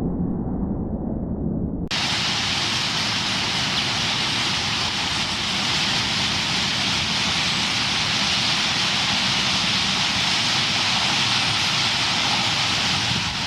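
Dense, steady chatter of a huge roosting flock of purple martins, thousands of calls merging into a loud hiss. It cuts in abruptly about two seconds in, after low rumble.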